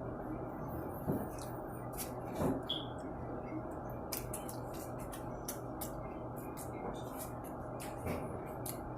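Eating at close range: scattered short clicks and smacks of chewing and handling food over a steady background hiss, with a couple of louder ones in the first few seconds.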